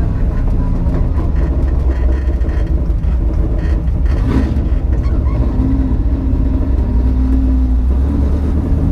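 Ford Mustang LX 5.0 V8 running steadily at low revs, a constant low rumble with no revving.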